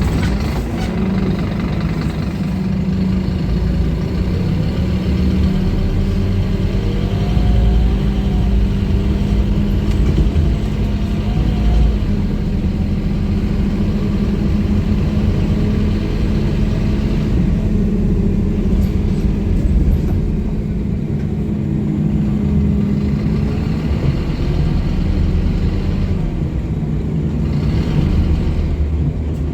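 Scania K230UB bus's 9-litre five-cylinder diesel engine running steadily under way, with a faint whine that rises and falls a few times partway through.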